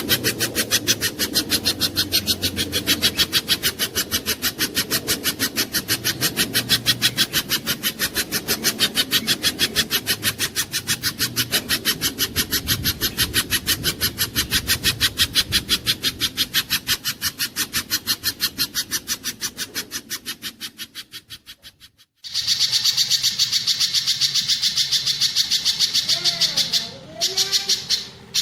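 Recorded spiderhunter (pijantung gunung) calls used as birdsong training audio: a rapid, very regular rasping call repeated several times a second, fading away over the last few seconds before a sudden break. About 22 s in, it gives way to a high, continuous chattering song.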